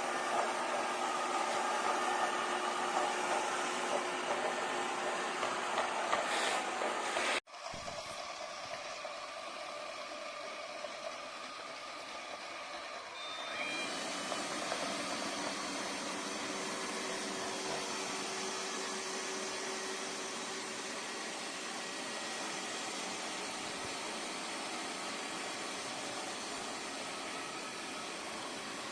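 Steady machine-like running noise with a faint hum. It cuts out abruptly for an instant about seven seconds in, then resumes slightly quieter.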